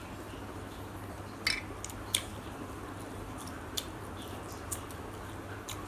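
Eating sounds: a few short, sharp clicks and smacks of chewing and utensils, over a steady low hum.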